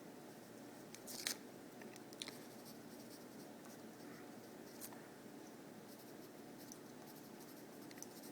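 Near silence: faint room hiss with a few soft scratches and taps of writing, the clearest about a second in and again near two and five seconds.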